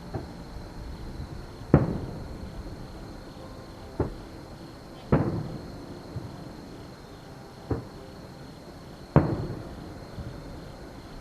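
Aerial firework shells bursting, heard from a distance as about six separate booms a second or more apart, each with a trailing echo. The heaviest come about two seconds in and near the end.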